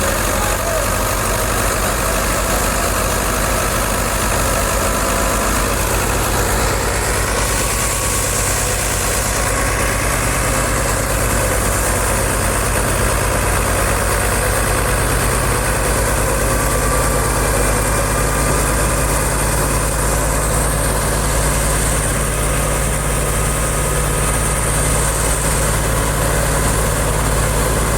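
Fiat 640 tractor's diesel engine running steadily, with an even low rumble of firing pulses.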